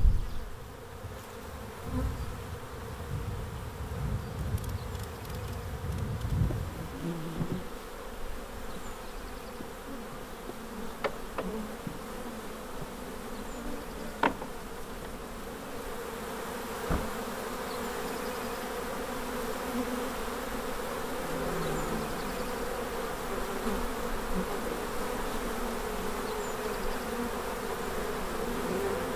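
Honey bees buzzing as a steady, dense drone at the hive. There is a low rumble over the first several seconds and a few sharp clicks partway through.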